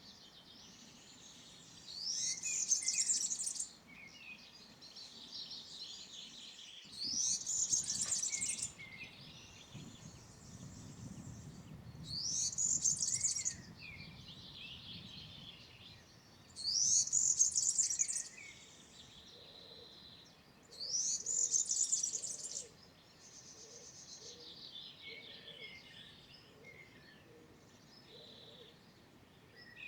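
European serin singing: five loud bursts of its high, fast jingling song, each about a second and a half long and coming every four to five seconds, with softer song from other birds between them.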